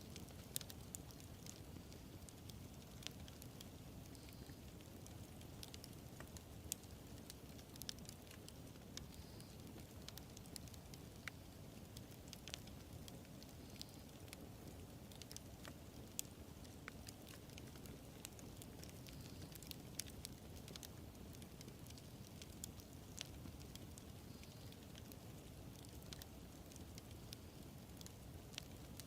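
Wood fire burning: a faint, steady low rumble with irregular sharp crackles and pops, roughly one or two a second.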